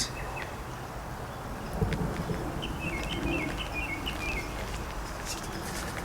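A bird chirping in the background: a quick run of short, high chirps a few seconds in, over a low, steady background rumble.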